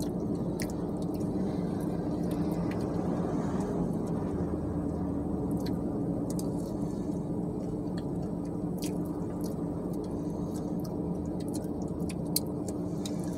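Chewing and biting into fried chicken, with small scattered clicks, over a steady low hum inside the car.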